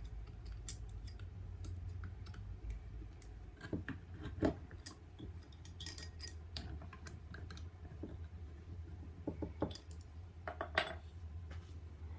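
Light metallic clicks and clinks of hand tools and small model-engine parts being handled, a few sharper knocks among them, over a steady low hum.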